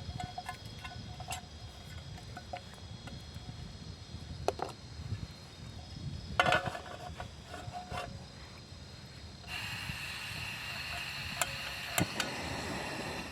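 Scattered light clicks and knocks, some with a short metallic ring, as things are handled, over a faint steady chirping of insects. About nine and a half seconds in, a steady hiss starts suddenly.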